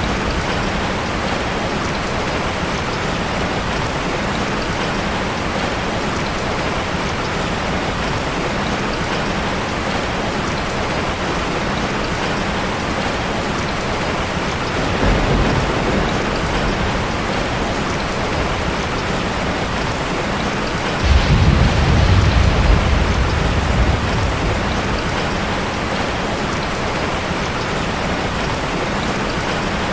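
Heavy rain falling steadily, with a low rumble of thunder about halfway through and a louder, longer rumble about two-thirds of the way in.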